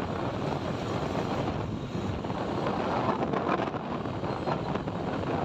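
Steady rush of wind over the microphone on a moving motorbike, mixed with road and traffic noise.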